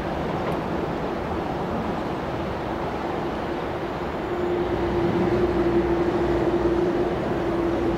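Renfe train running past, a steady rushing noise; about halfway through a steady tone comes in and the sound grows a little louder.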